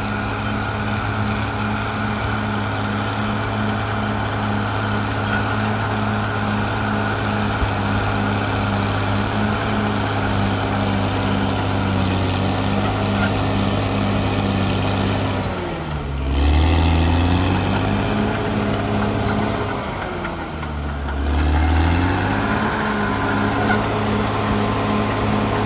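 Cat D6R XL bulldozer's diesel engine running steadily at high revs, twice dropping in pitch for about a second and then climbing back up.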